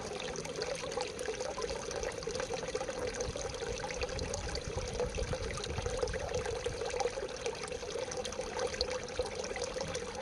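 Running water, a steady splashing trickle such as a small garden stream or cascade.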